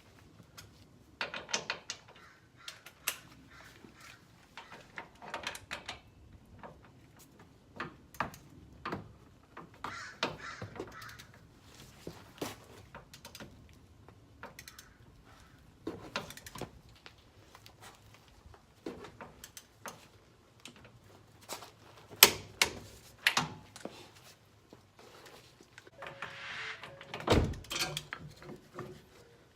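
Ratchet and torque wrench clicking in irregular spells as the hub assembly's mounting bolts are run in and tightened, with metal clinks and knocks between; a sharp metallic strike comes about two-thirds of the way through and a heavier knock near the end.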